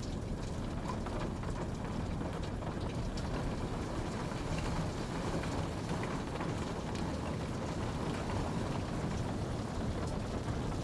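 Steady rain falling, an even rushing hiss with scattered drops ticking on a surface.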